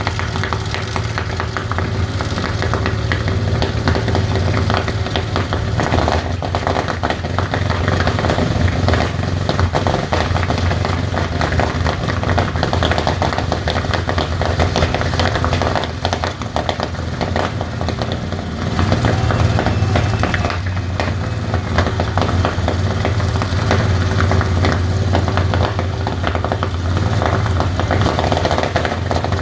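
Rolls-Royce Merlin V12 aero engine running at a steady speed, easing off briefly about sixteen seconds in and picking up again about three seconds later.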